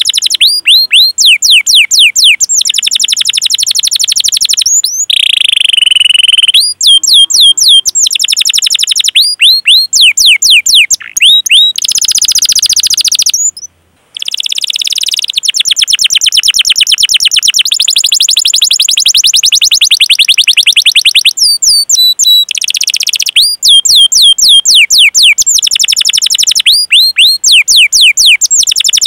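Domestic canary singing: long rolls of very fast repeated high notes alternating with runs of sharp, separate falling 'cuit cuit' notes, with one brief break about halfway through.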